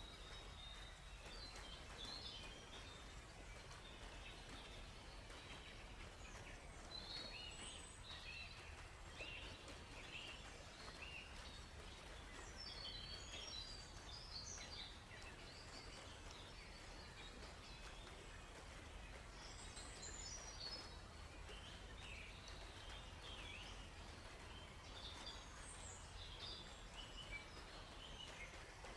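Several songbirds chirping and trilling in short, high phrases, with a busy cluster of calls in the middle of the stretch and another near the end, over a faint steady background hiss.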